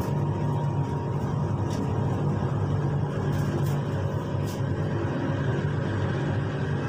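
Kelana Jaya Line light-rail train running along elevated track, heard from inside the cabin: a steady low rumble and hum, with a faint steady whine and a few light clicks.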